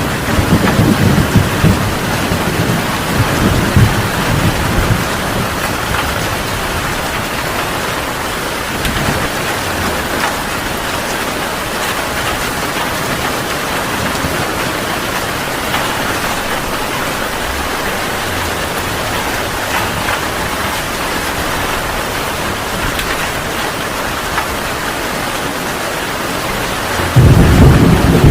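Heavy rain falling steadily in a thunderstorm. A low thunder rumble fades away over the first few seconds, and a loud rumble of thunder starts suddenly near the end.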